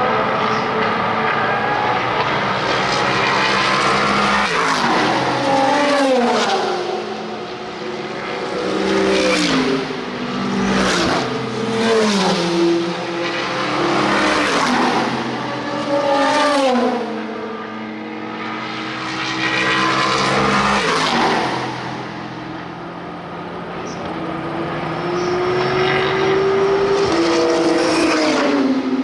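Several race cars' engines at racing speed, pitch falling in quick steps as they downshift under braking for a corner, one after another. Near the end an engine note rises steadily as a car accelerates away.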